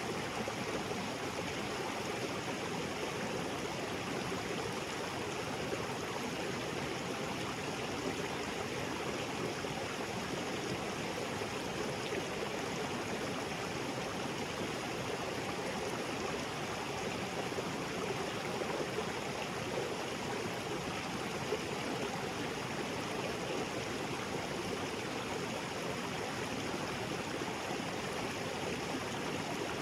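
Small waterfall and creek water flowing steadily over rocks: a constant rushing and burbling.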